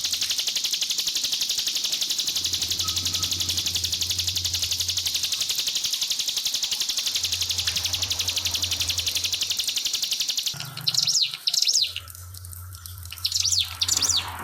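Ciblek (prinia) singing a long, very rapid high trill for about ten seconds, then breaking into short separate chirping phrases, with trickling water mixed in.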